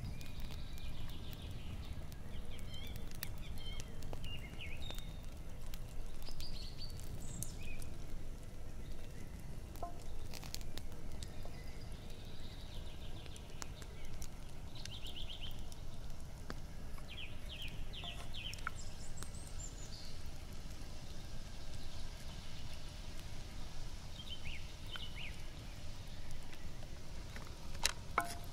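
Songbirds chirping, with short rapid trills now and then, over a steady low rumble. A sharp click comes near the end.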